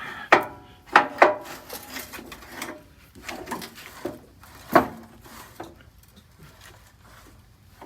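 Mower deck of an old Sears Custom lawn tractor being raised and lowered by hand, its lift linkage giving several sharp metal knocks and rattles, with softer scraping between them.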